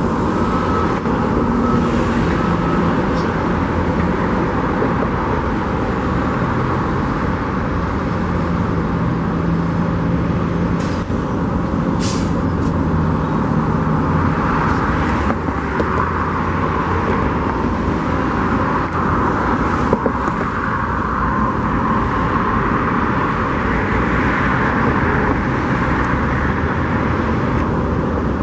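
Trucks and heavy equipment working on a construction site: a steady, noisy mix of diesel engines running, with a brief hiss of air about twelve seconds in.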